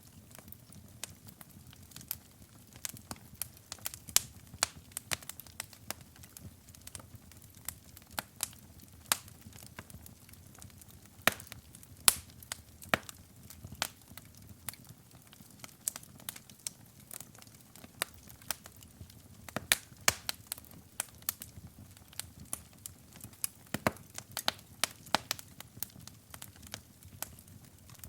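Wood fire burning in a fireplace, with sharp irregular crackles and pops, several a second, over a low steady rumble of the flames.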